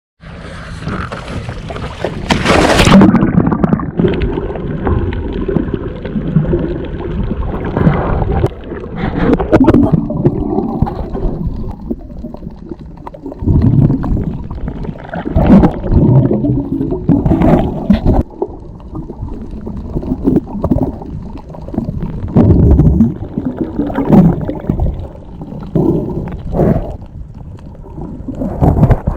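Water heard through a submerged action camera: a splash about three seconds in, then muffled gurgling and sloshing in irregular surges.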